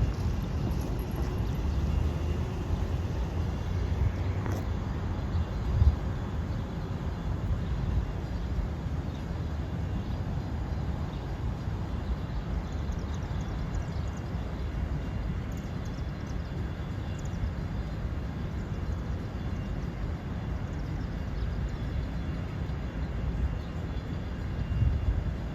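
Steady low outdoor rumble with no horn sounding, and a brief low thump about six seconds in.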